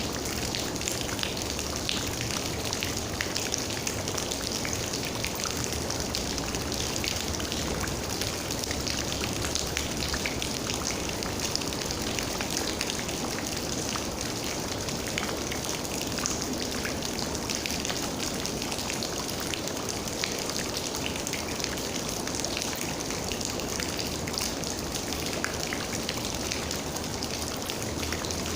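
Steady rain, with many individual raindrops ticking and pattering on surfaces.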